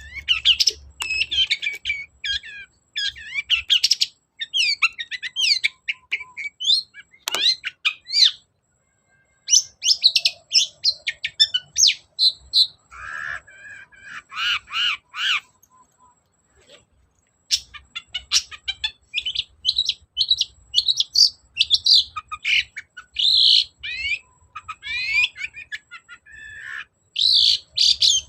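Long-tailed shrike singing a fast, varied song of sweeping chirps and chattering phrases, breaking off briefly twice.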